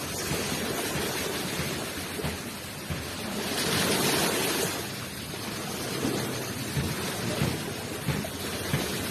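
Ocean waves washing onto a shore: steady surf with a low rumble, one wave swelling loudest about four seconds in and then falling back.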